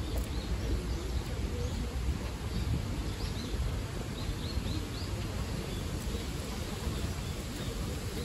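Outdoor park ambience: a few short, high bird chirps, most of them between a third and two-thirds of the way through, over a steady low rumble.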